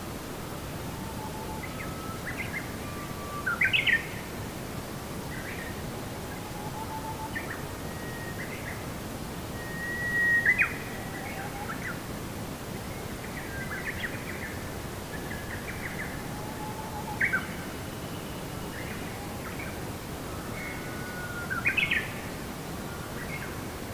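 Songbirds chirping and calling in short, scattered phrases, four of them louder, over a steady background hiss.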